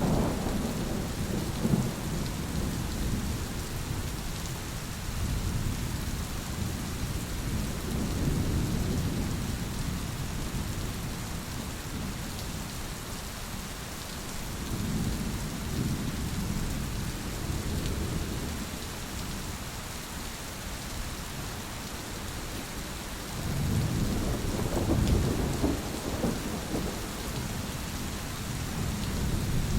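Thunderstorm: steady rain hiss with rolling thunder rumbling low in waves, swelling again about 24 seconds in.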